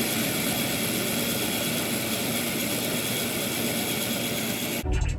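A Ridgid K-60 sectional drain machine running steadily while snaking roots out of a floor drain; the motor noise stops abruptly near the end.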